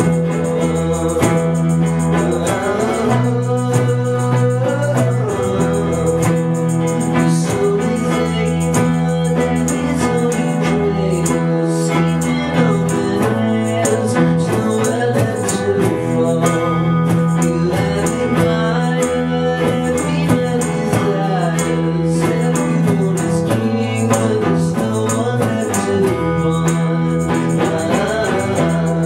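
Rock band playing live: guitars and bass with drums keeping a steady beat, and a singing voice over them.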